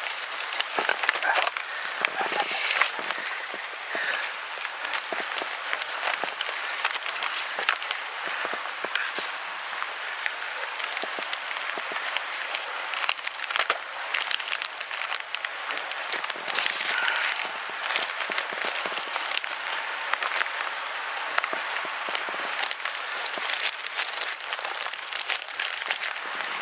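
Wood bonfire burning with a steady dense crackling and popping.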